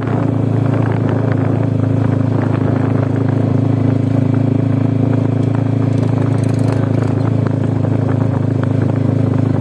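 Motorcycle engine running at a steady idle, a low even rumble with a rapid rattling texture over it.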